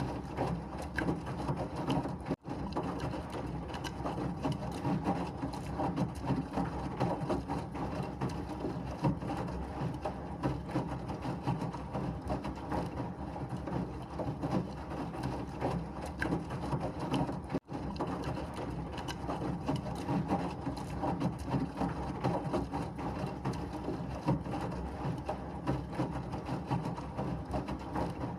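Washing machine running steadily: a dense, even churning and whirring noise. It cuts out for an instant twice, about two seconds in and again past the middle.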